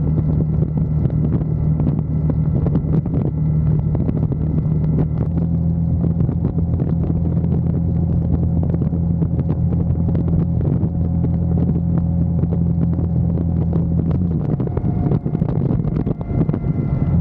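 Motorcycle engine running at a steady cruising speed, its note shifting a little about five seconds in, with wind rushing over the rider's camera microphone. Around fourteen seconds in the steady engine note breaks up briefly, as with a throttle change or gear shift, then settles again near the end.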